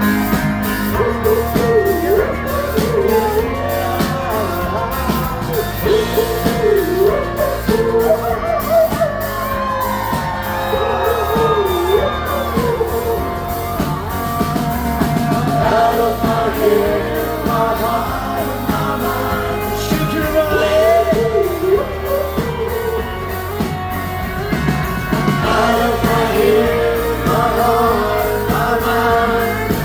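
Live rock band playing, with a crowd singing the song in place of the lead vocal, some shouting among them, in a large room.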